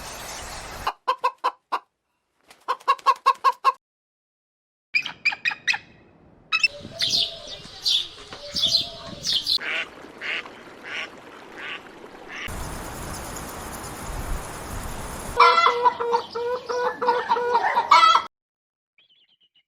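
Birds calling in several short separate clips: rapid runs of clucking, honk-like calls, a busy stretch of mixed calls, and a few seconds of rushing noise before a last rapid run of calls that cuts off suddenly.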